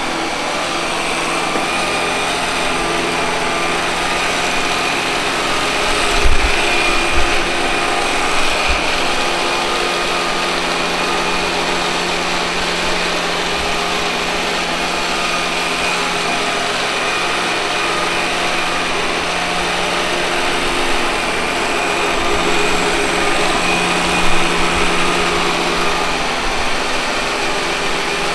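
Robot vacuum cleaner running steadily, its motor and brushes giving a constant hum with a high whine, with a few dull low knocks about six to nine seconds in and again near the end.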